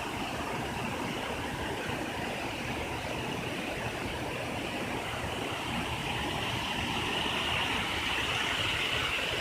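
Steady rushing of flowing water, a continuous wash of noise that grows a little louder in the second half.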